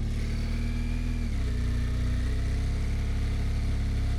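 BMW motorcycle engine running at low riding speed, its note dropping a little about a second in.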